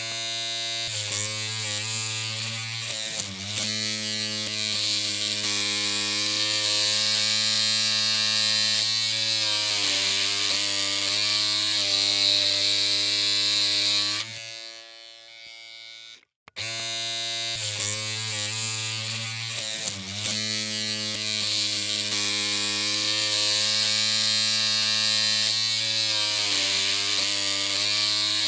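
Electric clippers humming with a steady, even buzz. The hum stops about halfway through and starts again after about two seconds.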